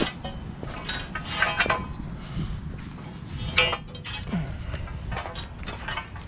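Irregular metallic clinks and clanks, as of metal pieces being handled and knocked together, with the sharpest knock about three and a half seconds in.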